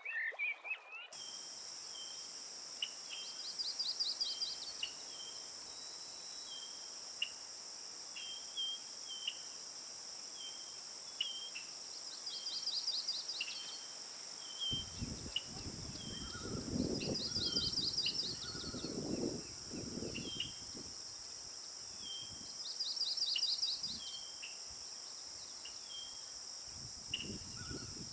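Outdoor woodland ambience: insects buzz steadily in a high register while one bird repeats a short chirp over and over and another sings a fast trill every five or six seconds. From about halfway, bursts of low rumbling noise come and go.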